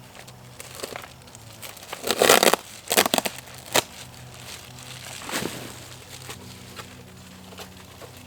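A few short bursts of rustling and crinkling, the loudest about two seconds in and smaller ones about three, four and five seconds in, over a faint steady low hum.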